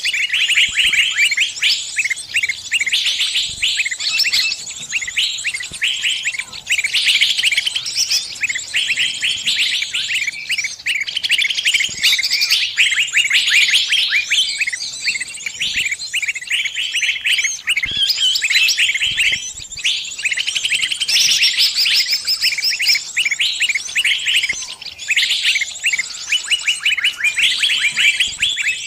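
A small bird's distress calls: rapid, high-pitched chirps in dense, unbroken runs, the calls of a bird caught and pinched, calling its flock mates for help.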